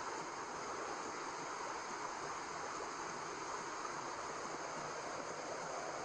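Steady white noise: an even, unchanging hiss with no rhythm, pulse or tone in it.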